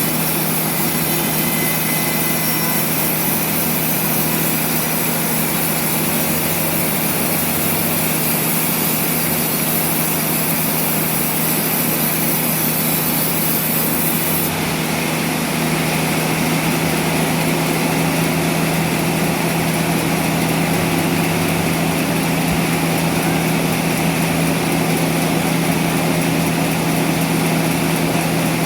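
Sawmill machinery running steadily: a constant machine hum with saw noise, the sound shifting and growing slightly louder about halfway through.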